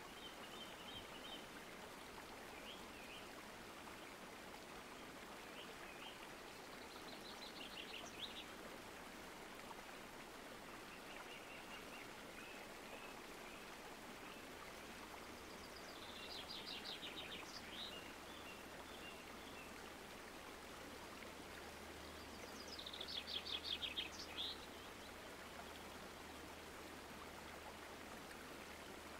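Small songbirds singing short trilled phrases of rapid repeated notes, with a few softer chirps between them; the loudest trill comes about three-quarters of the way through. Underneath is a faint, steady outdoor hiss.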